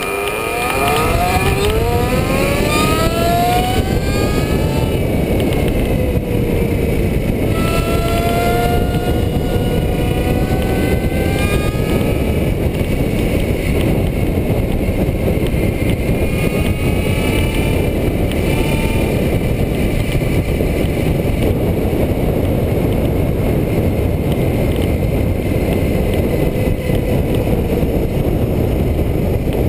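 Whine of a 28 hp electric bicycle motor climbing in pitch as it accelerates hard, several times over, under heavy wind rushing on the on-board microphone.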